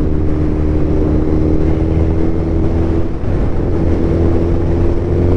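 2021 Suzuki Hayabusa Gen3's inline-four engine running steadily through an Akrapovič full-system exhaust. Its note dips briefly about three seconds in, then settles again.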